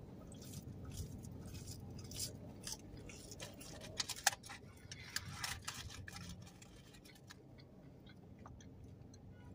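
A person chewing French fries, with soft wet clicks and mouth noises that come thick for the first six seconds or so, then thin out to a few faint ones.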